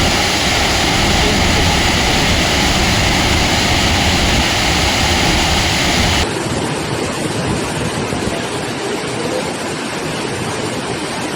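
Water gushing out of a reservoir, a loud, steady rush of water. About six seconds in, it changes abruptly and loses its deep rumble.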